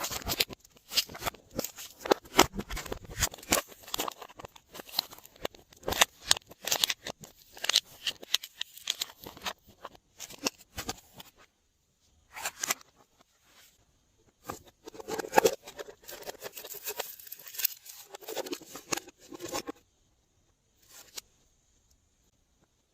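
Glossy slime being worked by hand, giving dense runs of sticky clicks, pops and squelches, stopping a few times for a second or two.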